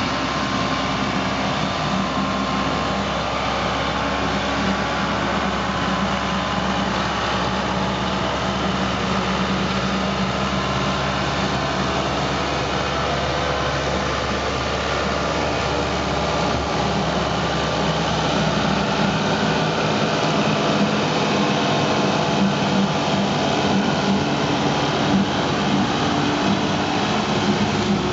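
Tractor engine running steadily while driving a slasher through grass, getting a little louder about two-thirds of the way in.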